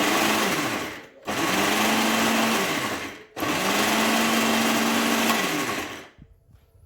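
Moulinex kitchen appliance's electric motor switched on in three pulses, each spinning up, running at a steady high whir and winding down as it is released. It is the appliance being run after repair and cleaning.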